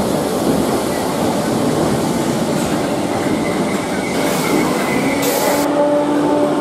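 Merseyrail Class 507 electric train running into an underground platform: a loud, steady rumble of wheels and running gear echoing in the station, with a thin high wheel squeal and a hiss through the middle as it passes. Near the end a steady low electric hum with a couple of tones takes over.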